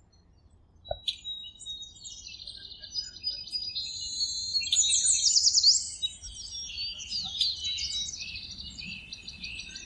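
Birds chirping and singing, overlapping high trills and quick sweeping whistles. They grow louder toward the middle, loudest around five to six seconds in.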